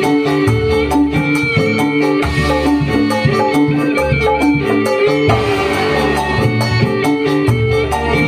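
Dangdut koplo band playing live: held melody notes over a steady beat, with strong bass and drums.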